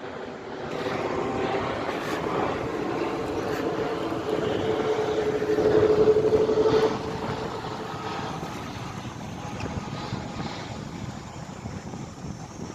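Wind and road noise of a bicycle ride, with a motor vehicle passing close by. Its hum builds to its loudest about six to seven seconds in, then drops away.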